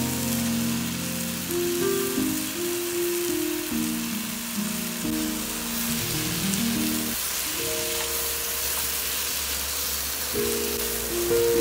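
Food sizzling steadily as it fries in oil in a pan, under background music with a slow melody.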